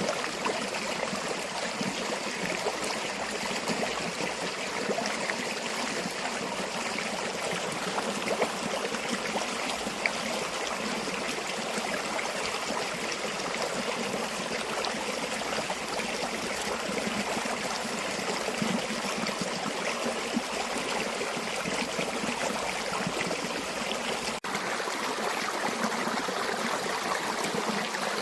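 Flowing river water, a steady even rushing and trickling, with a momentary dropout a few seconds before the end.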